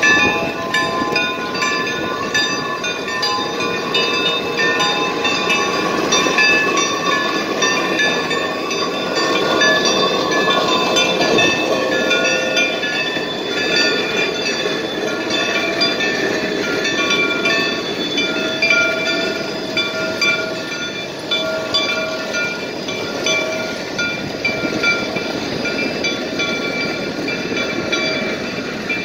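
Geared steam locomotive and train running on the Cass line, a steady dense mechanical and steam noise. Many thin high-pitched tones come and go over it throughout.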